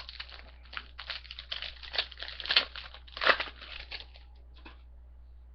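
Wrapper of a Panini Rookies & Stars football card pack being torn open and crinkled: a dense run of crackling rustles, loudest around the middle, stopping about a second before the end.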